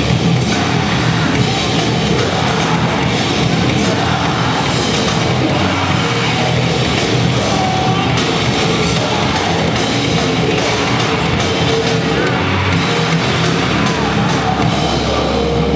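Loud heavy rock music with distorted guitars, drums and yelled singing.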